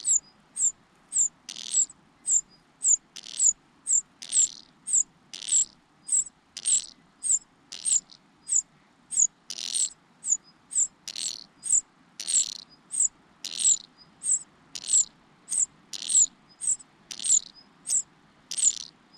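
Nestlings, a cuckoo chick among them, begging for food: short, thin, high-pitched calls repeated about twice a second, some with a fuller rasping note beneath.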